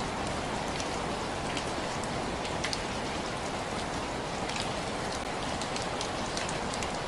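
Steady rainfall: an even hiss of rain, with many separate drops ticking sharply as they hit a surface.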